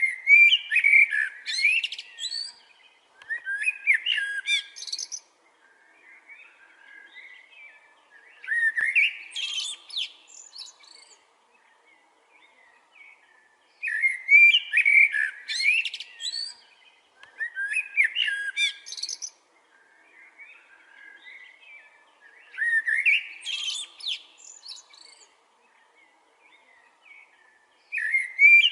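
Songbird singing: a loud, complex, high-pitched phrase of about two seconds repeats every four to five seconds, with softer phrases in the gaps.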